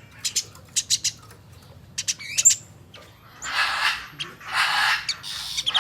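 Eurasian tree sparrow calling: a quick series of short, sharp high chirps, followed about three seconds in by three longer harsh, rasping bursts.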